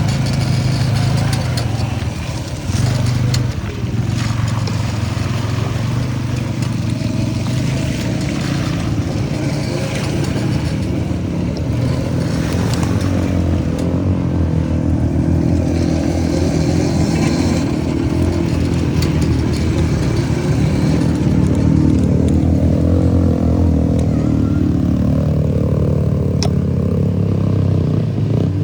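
Engine of a Can-Am vehicle running steadily while under way, its pitch rising and falling a little with the throttle.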